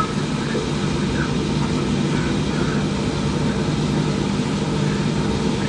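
Torrential rain pouring down, a steady dense rumbling noise.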